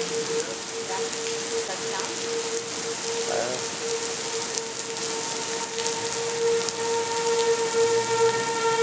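Tornado warning siren wailing on a steady tone over the hiss of rain; about five seconds in, a second, higher tone joins it. The siren signals a tornado warning.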